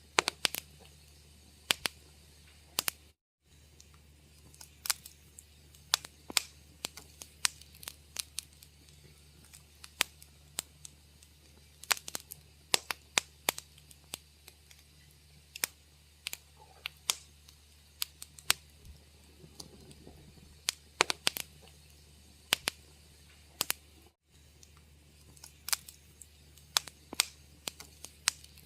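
Wood fire crackling: irregular sharp pops and snaps, several a second at times, over a faint steady low hum. The sound cuts out briefly twice, about three seconds in and near the end.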